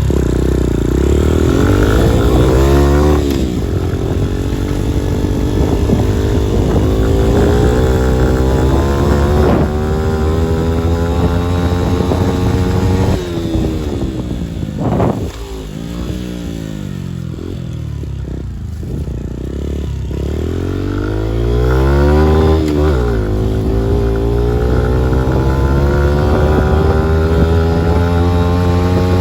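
Turbocharged Honda CRF50 pit bike's 50 cc single-cylinder engine running on a ride, its revs climbing and falling back several times, easing off in the middle and pulling up again near the end. It runs reasonably well on a newly fitted CV-style GY6 carburettor that is not yet tuned in and still runs rich.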